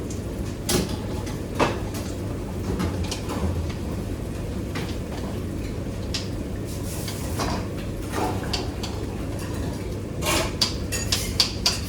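Kitchen handling sounds: scattered knocks and clicks over a steady low hum, with a quick run of sharper clicks near the end.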